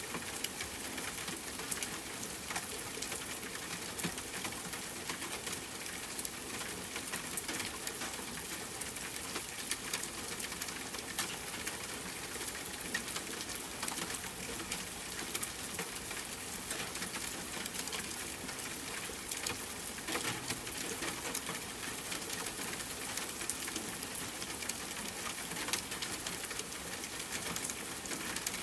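Steady rain falling, with many individual drops ticking sharply on a hard surface over a constant hiss.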